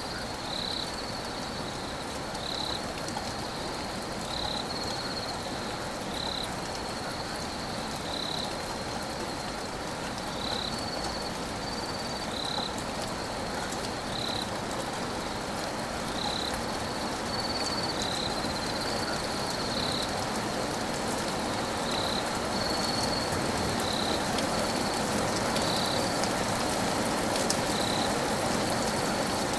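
Steady rain falling, a little louder toward the end, with a continuous high-pitched trill running through it.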